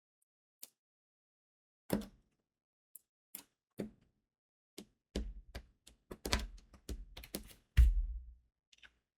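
Diamond painting work sounds: crystal beads clicking and tapping as they are pressed onto the canvas and handled in the tray. There are a few sparse clicks at first, then a busier clatter of taps and knocks in the second half, loudest about eight seconds in.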